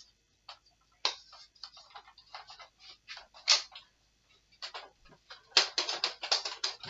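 Irregular plastic clicks and rattles of a Nerf blaster and its foam darts being handled and loaded, with a quick run of clicks near the end.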